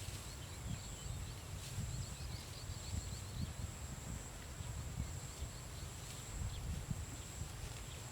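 Outdoor rural field ambience: a steady high-pitched thin whine with faint bird twittering through the first half, over a constant low rumble.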